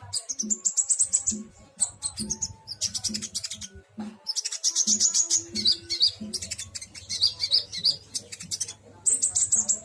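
Kolibri ninja (van Hasselt's sunbird) singing in trotol style: bouts of very fast, stuttering high-pitched notes rattled out in rapid series, several bouts in a row.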